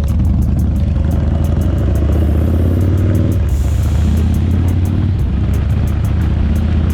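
Harley-Davidson Shovelhead V-twin engine running steadily under way, a loud, even low drone.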